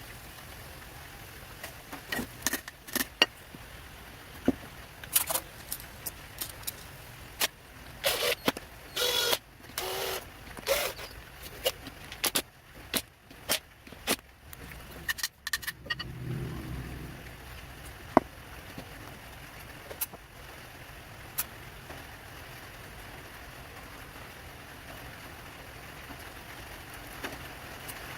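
Workshop handling sounds: scattered sharp clicks and knocks, a cluster of short scrapes around the middle, and a brief low hum about sixteen seconds in.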